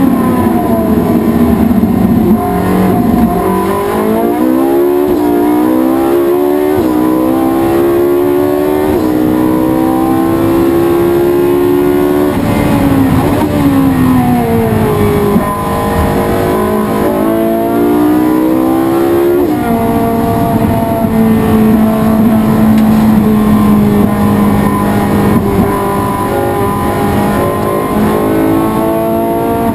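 Race car engine running hard, its pitch climbing through the revs and dropping sharply twice, then holding steady for the last part.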